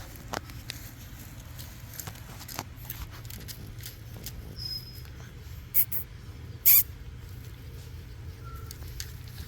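French bulldog puppies moving about, with scattered small clicks and taps and a brief high squeak. Two short, sharp noisy bursts come about six and seven seconds in and are the loudest sounds.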